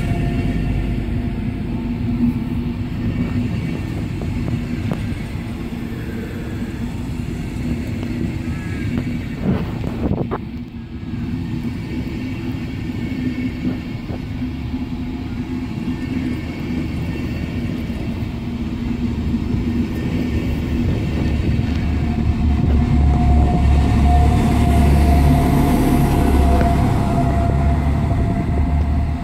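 Long locomotive-hauled passenger train rolling past on the platform track: steady rumble of the coach wheels on the rails. Near the end the class 245 diesel locomotive at its tail passes close by, and its low engine rumble grows louder.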